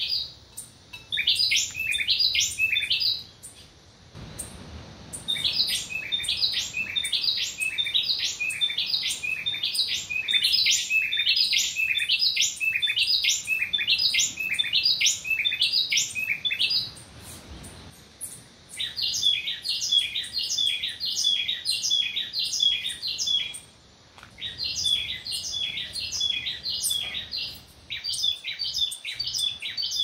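Tropical birds singing: runs of rapid, repeated high chirps lasting several seconds, broken by short pauses.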